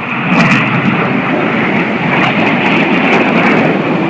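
Loud jet noise from BAE Systems Hawk T1 jets flying over, a steady rushing noise that swells about a third of a second in.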